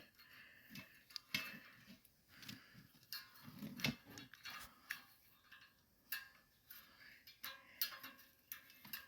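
Faint, irregular small clicks and clinks of metal parts being handled as a carburetor is fitted back onto a generator's engine.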